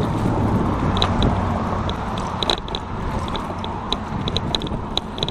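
Bicycle on the move: light, irregular mechanical clicking from the bike, several ticks a second in loose clusters, over steady road and wind noise.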